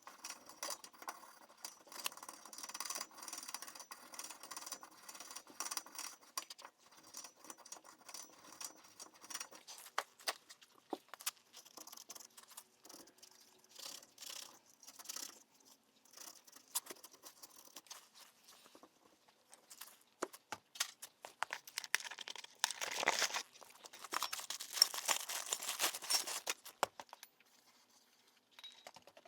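Metal tools and parts being handled during rear brake caliper work: scattered clicks, clinks and taps with some rustling, and a louder stretch of hissing and rustling near the end.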